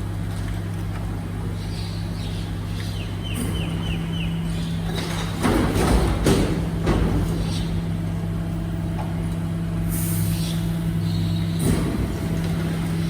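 Garbage truck at work with a steady low hum, a few loud knocks about halfway through, and a hiss of air about ten seconds in.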